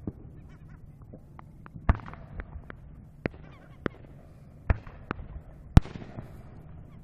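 Fireworks shells bursting about a kilometre away: a string of sharp bangs, about half a dozen, each trailing off in a rumble, the loudest near the end.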